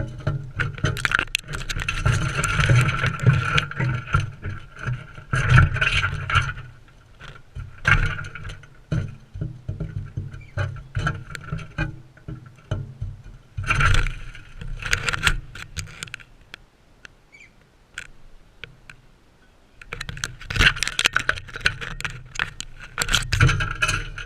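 Crimson rosellas feeding close to the camera at a seed feeder: rapid irregular clicks, scrapes and knocks of beaks and feet on seed and the feeder, with low thuds. The sound eases off for a few seconds past the middle, then picks up again.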